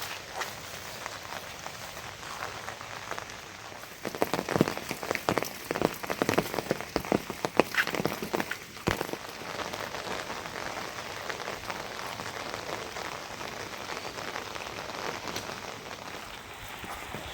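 Rain falling steadily, with a spell of louder, irregular drop impacts close by from about four to nine seconds in.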